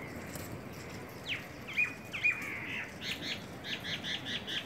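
A bird calling: a few sharp downward-sliding notes, then a quick run of short repeated calls in the second half.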